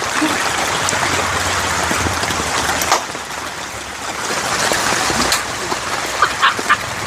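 Heavy rain falling steadily, a constant hiss of water that eases a little about three seconds in.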